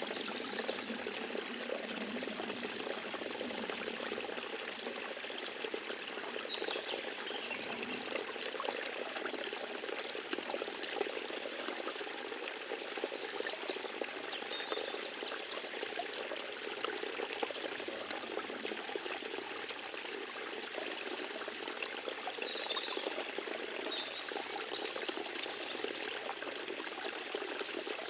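Forest stream trickling and babbling steadily, with a few faint high-pitched calls now and then.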